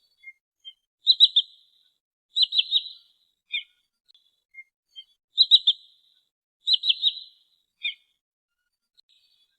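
Trinil sawah (a paddy-field sandpiper) calling: four bursts of three quick, high, sharp notes, with single shorter notes in between.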